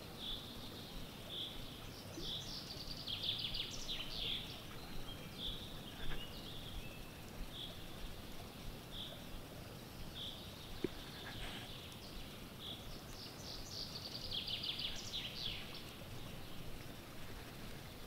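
Songbirds singing over a steady low outdoor background: one bird repeats a single short high note about once a second, and another sings a trilled phrase twice, a few seconds in and again near the end. A couple of brief knocks come about six and eleven seconds in.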